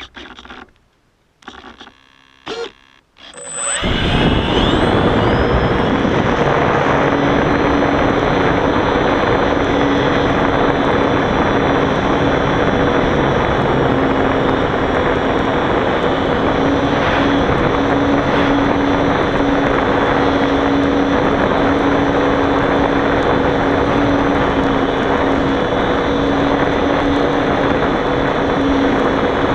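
Electric motor and propeller of a Turbo Timber RC plane spooling up about four seconds in with a rising whine, then running steadily with a loud rushing noise and a steady hum.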